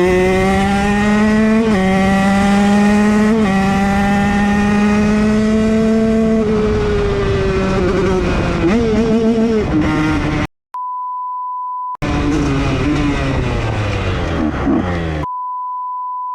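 KTM SX motocross bike's single-cylinder engine running hard at high revs, with two brief jumps in pitch, then the revs falling away and a few quick throttle blips. Two steady high-pitched censor beeps cut in, one about two-thirds of the way through and one near the end, with the engine audible between them.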